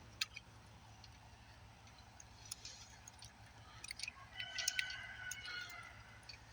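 Faint, scattered small metallic clicks and ticks of a carburetor's throttle linkage and tension spring being worked into place by hand. A faint high steady tone sounds briefly about four to five seconds in.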